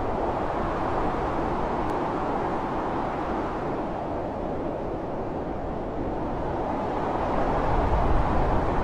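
Strong blizzard wind blowing in a steady rush, swelling into a deeper, louder gust near the end.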